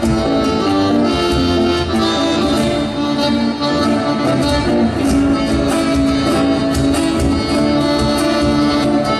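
Argentine folk music led by an accordion, with guitar accompaniment, playing steadily.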